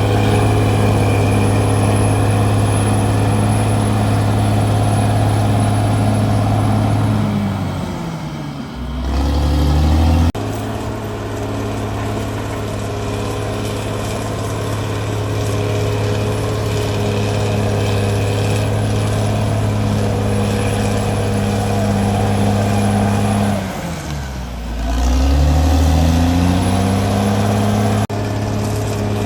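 Caterpillar D6R bulldozer's diesel engine running hard and steadily. Twice the engine note drops sharply and climbs back up over a second or two. The sound jumps abruptly a couple of times.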